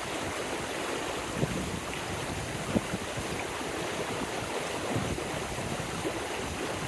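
Stream water running steadily, with a few brief low gusts of wind buffeting the microphone.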